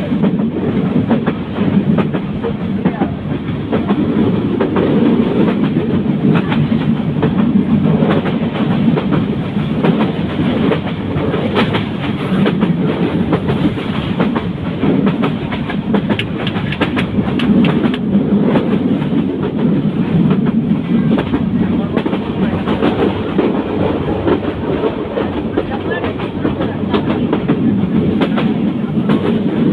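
A train running on the rails: a steady rumble with wheels clicking over rail joints, the clicks coming thickest around the middle.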